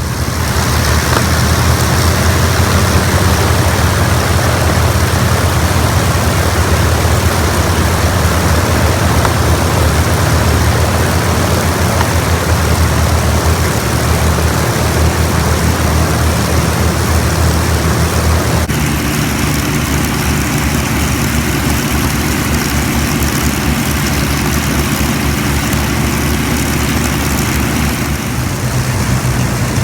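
Avro Lancaster bomber's Merlin V12 piston engines running with propellers turning, a loud steady drone. The tone changes abruptly about nineteen seconds in.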